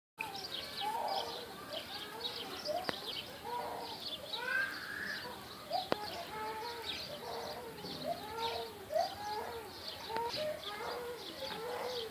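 Dense chorus of many calling animals: short arched calls overlap and repeat one over another throughout, with thinner, higher chirps above them.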